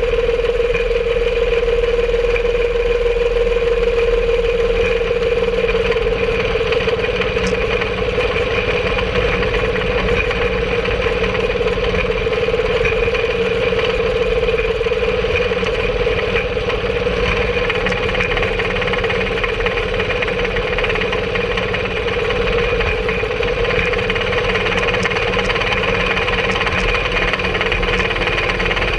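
Engine of a home-made rail cart running steadily while the cart travels along the track, with a constant hum that barely changes in pitch.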